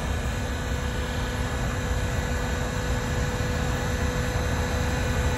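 An engine idling steadily: a low rumble with a constant hum.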